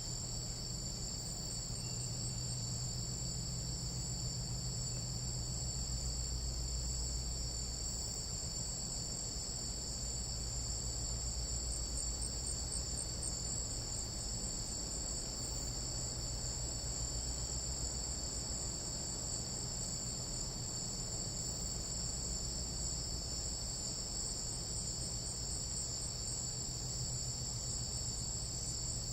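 Chorus of night insects in a Panama jungle: several steady high-pitched trills layered together, unbroken throughout, over a low steady rumble.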